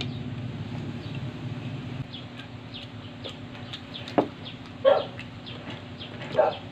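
Chewing and biting into crispy fried chicken, with faint crunchy ticks. A sharp click comes a little after four seconds, and two short calls sound near five and six and a half seconds.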